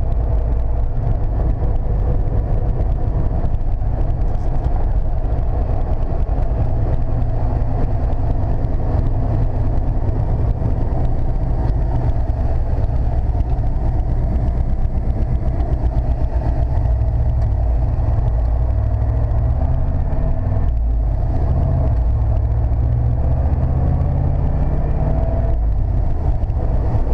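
1995 Chevrolet C/K 1500 pickup being driven: steady engine and road noise heard from inside the cab, a continuous low rumble with no sudden changes.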